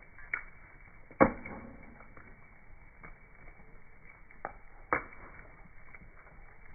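Bonfire crackling, slowed and lowered in pitch by slow-motion playback: a faint steady crackle with four sharp pops, the loudest about a second in and two close together near the end.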